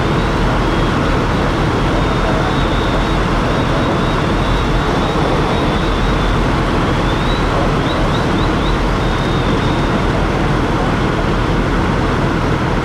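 Steady, loud engine rumble of fire apparatus running at a working structure fire, with a faint high whine that wavers briefly a little past the middle.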